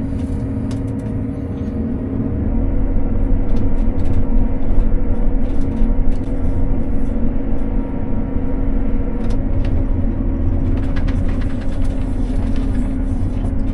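Combine harvester running under way in second gear: a steady engine drone with a held tone, growing heavier about two and a half seconds in, with scattered clicks and rattles over it.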